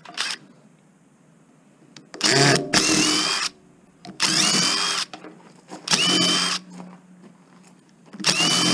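A power drill running in four short bursts, each whine rising as it spins up and then holding, as it backs screws out of a blender to free the motor.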